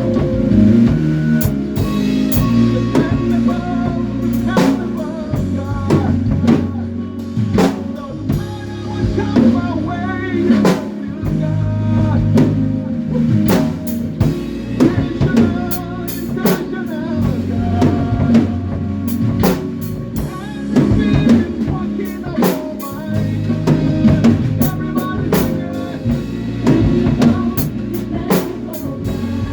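Live band playing an instrumental stretch of a gospel song: a drum kit with kick, snare and cymbal hits over sustained bass-guitar notes and other pitched instruments.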